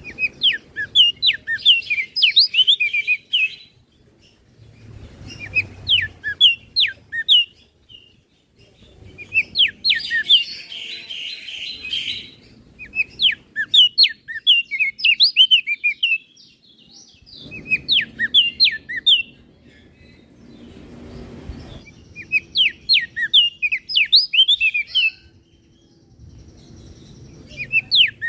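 Crested white-eye (opior jambul) singing: bursts of rapid, sharply sweeping chirps, each phrase a few seconds long and repeated after short pauses.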